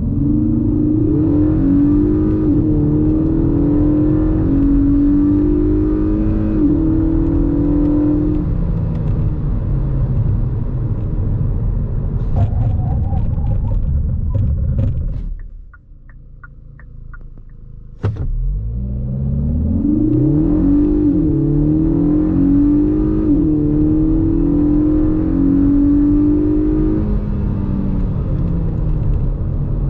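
2022 Kia Cerato GT's 1.6-litre turbo-petrol four-cylinder accelerating hard twice. Engine pitch climbs, then drops sharply at each quick upshift of its seven-speed dual-clutch gearbox before easing off. In the middle it goes quiet for about two seconds, then picks up again suddenly.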